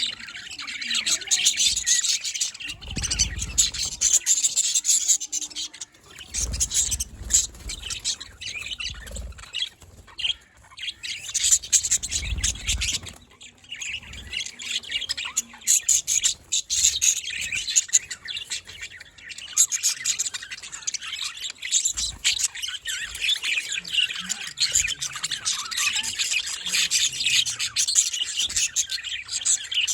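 A flock of budgerigars chattering, with a continuous mix of warbling twitters and squawks.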